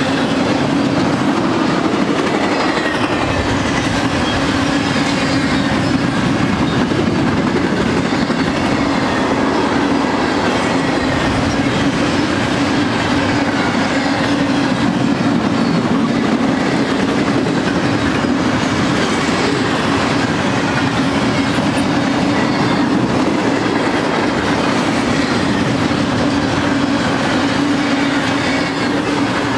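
Double-stack intermodal train's container-laden well cars rolling past: a steady, unbroken noise of steel wheels on the rail with a low drone underneath.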